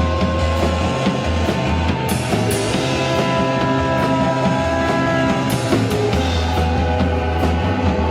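Live rock band playing an instrumental passage: drums with cymbal crashes about two seconds in and again past the middle, over a steady bass and long held notes.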